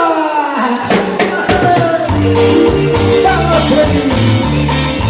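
Band music: a held tone slides down in pitch, a few drum hits follow, and about two seconds in the drums and bass come in with a steady beat.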